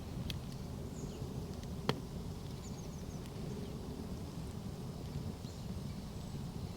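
Wood campfire burning with a low steady rumble and scattered small crackles, and one sharp pop about two seconds in.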